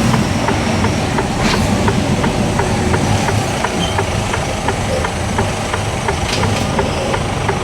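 Lorry's diesel engine running heard from inside the cab, with the indicator ticking steadily, about three ticks a second, as the truck pulls over to park.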